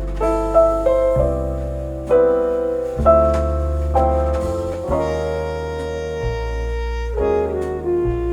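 Jazz music with piano and bass under a held melody line, played back over semi-open-baffle three-way loudspeakers driven by a push-pull tube amplifier.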